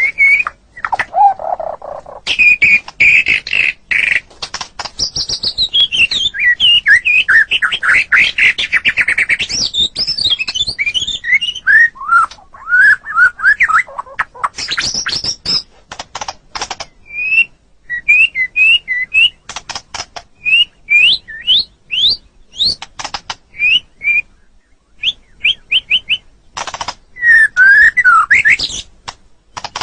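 White-rumped shama (murai batu) singing a long, varied song: loud whistled phrases, quick sweeping notes and rapid clicking rattles, broken by short pauses.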